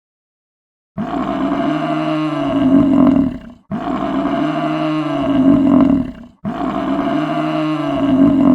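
A large animal's roaring call, the same call heard three times in a row, each about two and a half seconds long with short gaps between.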